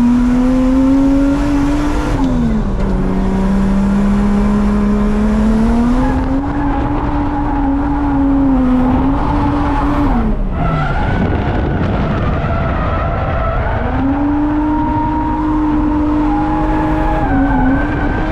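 Drift car engine held at steady high revs through long slides, with tyres skidding. The engine note dips twice, a couple of seconds in and about halfway, then climbs back up.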